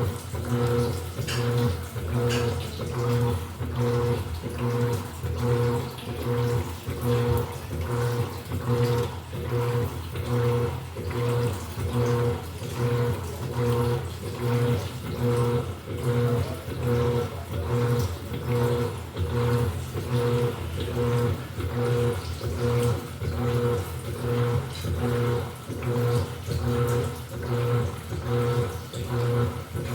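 Electrolux LED14 14 kg top-loading washing machine agitating: the motor hums in a regular pulse of a little more than one stroke a second as the drum swishes water and clothes back and forth.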